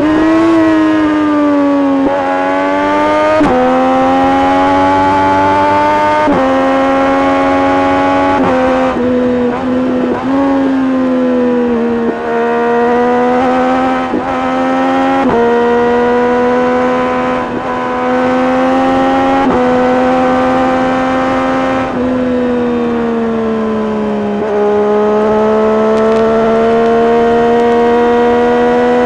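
Triumph Street Triple RS 765 cc inline three-cylinder engine through an SC-Project S1 exhaust, running under way with the note rising and falling. Several gear changes each break the note briefly, and about 22 seconds in the pitch slides down as the bike eases off before it climbs again.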